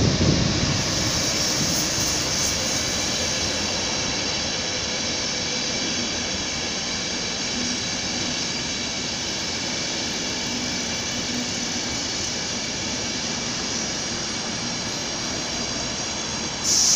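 Train in a station: steady running noise carrying a high whine of several steady tones. A sudden, louder high-pitched sound comes in near the end.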